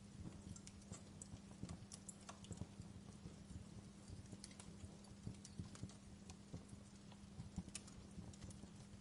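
Wood fire crackling in a fireplace: irregular small pops and snaps, faint overall, over a steady low hum.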